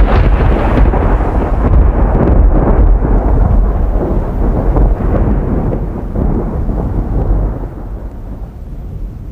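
Thunder rumbling loud and deep, slowly fading away over several seconds.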